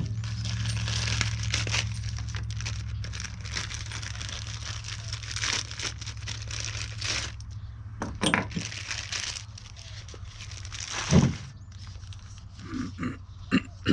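Plastic packaging crinkling and rustling as truck-step hardware is handled and unwrapped, broken by small clicks. A couple of knocks follow, and a louder knock comes about eleven seconds in, all over a steady low hum.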